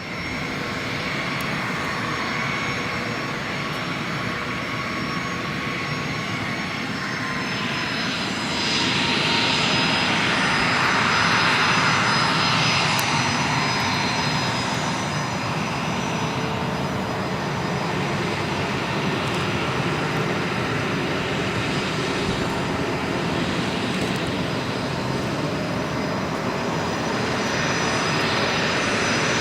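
Bombardier Challenger 605 business jet's twin General Electric CF34 turbofan engines running with a steady rush and high whine. The sound swells a little about eight seconds in, as the whine's pitch shifts, then holds steady.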